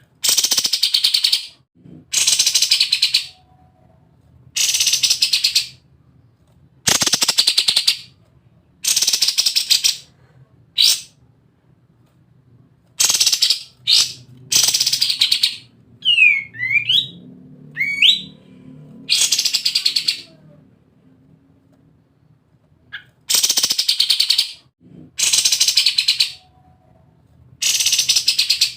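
Kapas tembak songbird singing in its rapid, machine-gun-like rattling 'ngebren' song: about a dozen high, fast rattling bursts of roughly a second each, separated by short pauses, with two quick gliding whistled notes around the middle.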